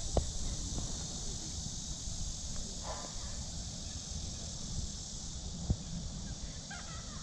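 Steady high-pitched drone of insects in summer trees, with footsteps on a path and a couple of sharp clicks.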